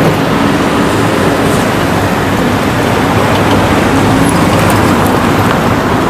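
Loud, steady vehicle and road traffic noise with a low engine hum.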